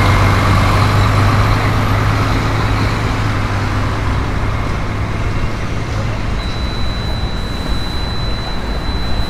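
Steady low drone of a motor vehicle engine running with street traffic noise. A thin high whine comes in about six seconds in.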